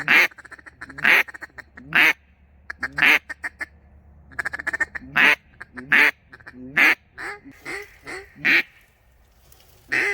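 Loud hen-mallard-style quacking: single quacks about once a second, with rapid chuckling chatter between them and a run of quacks that fades off near the end.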